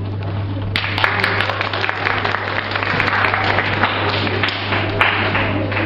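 Audience applause that breaks out about a second in and keeps going, a dense patter of many hands clapping over a steady low electrical hum.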